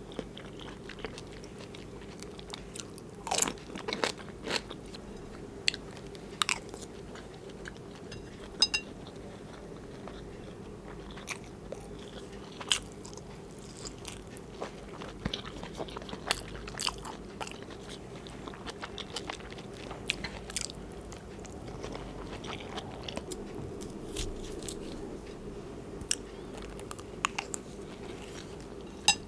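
Close-miked chewing and biting of zucchini cooked with beef, mozzarella and rice: irregular wet mouth clicks and soft crunches, over a steady low hum.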